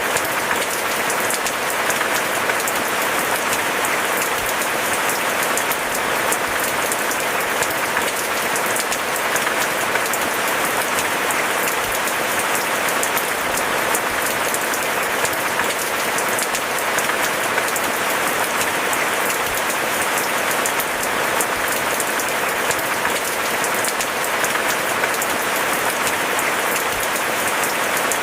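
Steady rain falling, a dense, even patter of drops that holds unchanged throughout.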